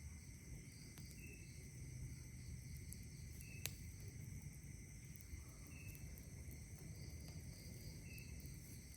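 Faint night ambience: a steady chorus of night insects with a short chirp repeating every two seconds or so, and a few sharp pops from a crackling campfire, the loudest a little over a third of the way through.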